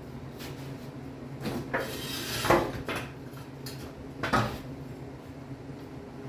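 Metal parts and tools being handled: a run of clanks and a scrape, then one more clank, over a steady low hum.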